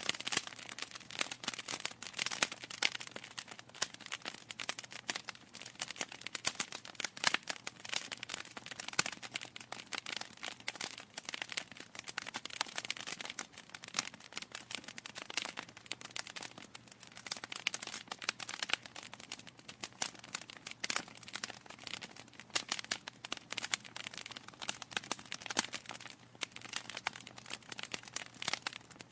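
Wood fire crackling: burning logs giving a dense run of irregular pops and snaps, several a second.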